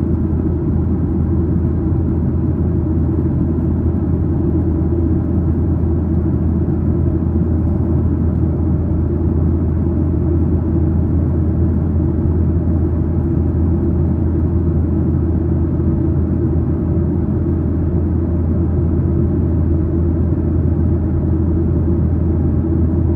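Steady low rumble of a Boeing 737-900ER's cabin, the CFM56-7B engines and airflow running without change.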